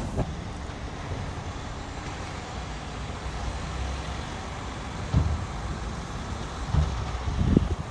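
Diesel engine of heavy earthmoving machinery running steadily, with a few low thuds about five seconds in and near the end.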